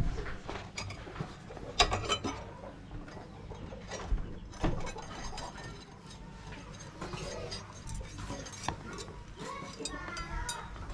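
Irregular metallic clinks and knocks of steel tools and pieces being handled, a few ringing briefly; the loudest come about two and four and a half seconds in. Voices start near the end.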